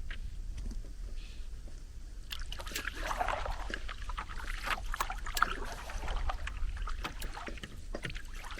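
A paddle dipping and pulling through lake water, with splashing and drips off the blade, starting about two seconds in, over a low steady rumble.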